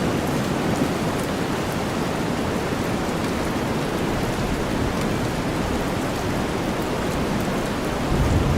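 Steady rain blended with deep white noise, an even wash of sound with faint drop ticks. A low rumble of thunder builds near the end.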